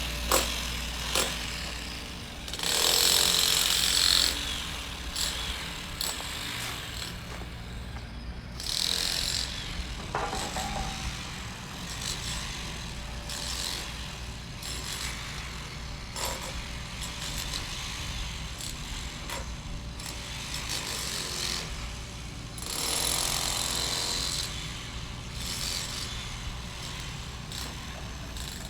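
Construction-site groundwork: a machine engine runs steadily underneath, with several louder bursts of scraping and clatter and scattered knocks.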